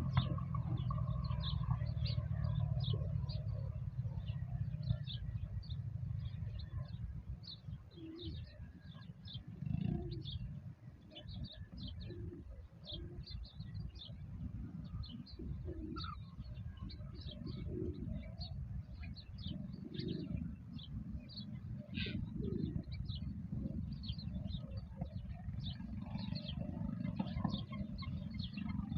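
Birds chirping in rapid short calls, with lower calls every couple of seconds, over a steady low rumble.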